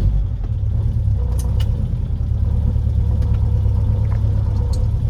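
Classic Ford Taunus V4 engine and road noise heard from inside the cabin while driving: a steady low rumble, with a faint steady whine through the middle and a few light clicks.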